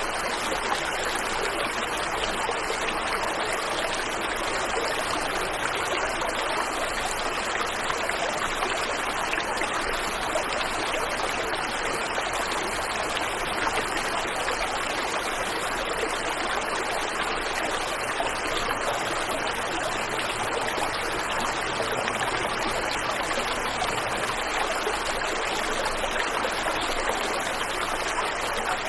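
Waterfall and stream water rushing in a steady, unbroken wash of noise.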